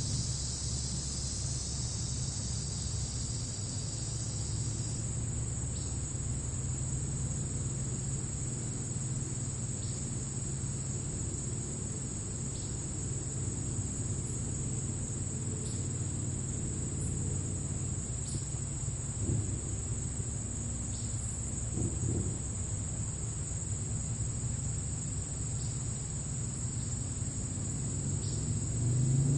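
Crickets chirring in a steady high trill, over a low steady rumble.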